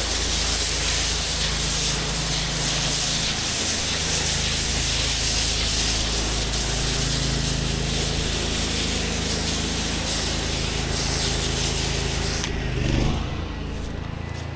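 Pressure washer spraying with a steady loud hiss over the low hum of its engine. About twelve and a half seconds in the spray cuts off suddenly, as when the trigger is released, and the engine keeps running.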